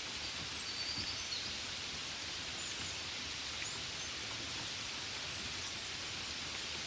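Steady hiss of gentle rain falling, with a few faint short high chirps in the first half.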